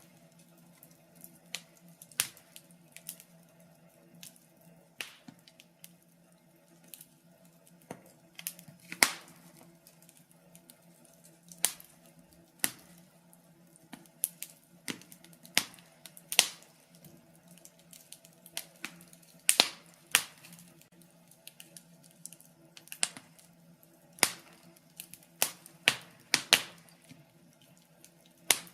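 Wood fire in a fireplace crackling, with sharp irregular pops and snaps every second or so over a faint low hum.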